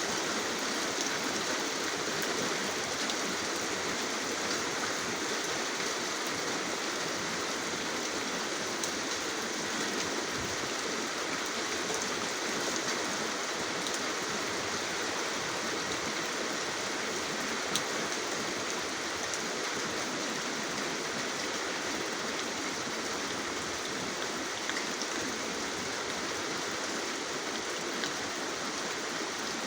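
Steady rain falling: an even, continuous hiss with scattered small drop ticks.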